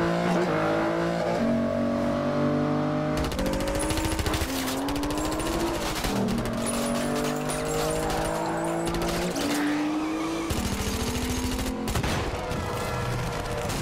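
Car-chase sound effects: a high-revving car engine climbing and dropping through gear changes, with rapid bursts of gunfire.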